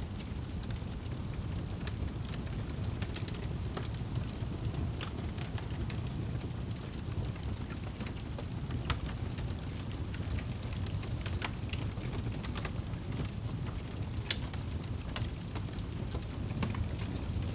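Steady rain with a wood fire crackling: a constant low rushing wash with sharp pops and snaps scattered irregularly through it.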